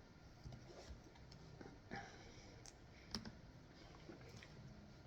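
Near silence with a few faint, scattered clicks, the loudest about two and three seconds in.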